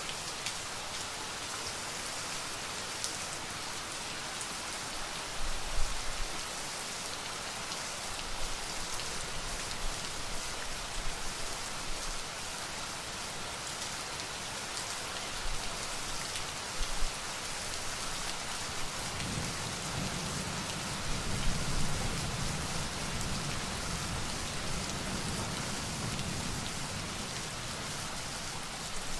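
Steady rain pattering, with a few brief louder spatters. A low rumble of thunder swells in about two-thirds of the way through and fades near the end.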